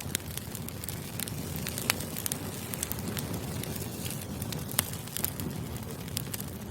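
Crackling fire ambience: a steady low rumble with irregular sharp pops and crackles scattered throughout.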